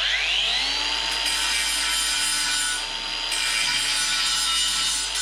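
Interskol cordless angle grinder starting up, its whine rising over about the first second, then running steadily at full speed.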